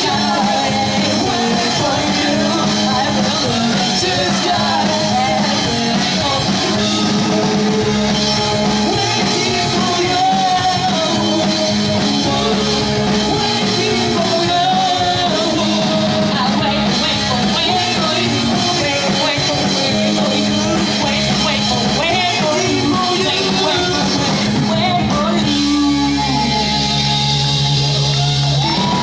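Pop-punk band playing live, with a voice singing over guitars, bass and drums; the music changes about four seconds before the end.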